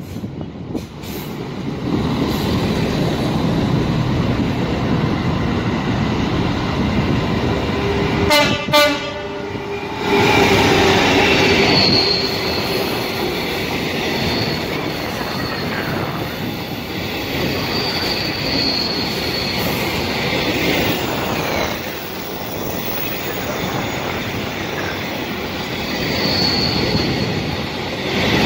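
Freight train of EWS hopper wagons passing, its wheels rumbling and clattering, with a high squeal coming and going as the wagons round the curve. A train horn sounds for about two seconds, about eight seconds in.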